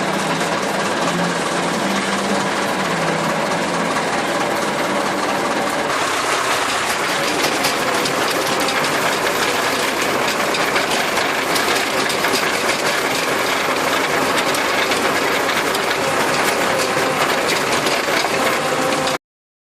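Massey Ferguson 275 tractor's diesel engine running under work, with a steady mechanical clatter and rattle; the sound shifts about six seconds in and cuts off suddenly near the end.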